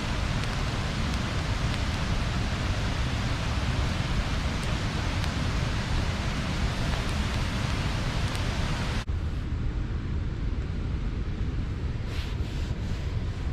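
Steady rush of river water pouring over a small weir. About nine seconds in it changes abruptly to a duller, deeper rush.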